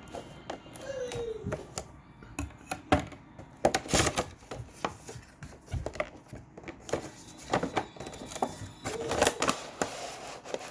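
A cardboard toy box being handled and opened by hand: irregular clicks, taps and scraping of cardboard and packaging, with a short squeaky scrape about a second in and another near the end.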